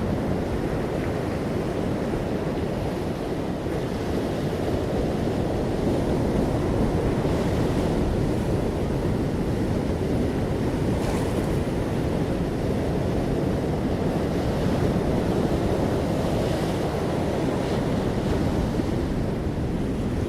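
Ocean waves washing on a shore: a steady deep rush of surf, with a few brief brighter washes as waves break.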